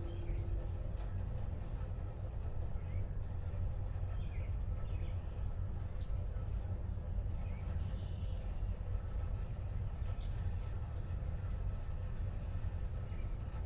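Outdoor rain ambience: a steady low rumble under light rain, with scattered short, high bird chirps.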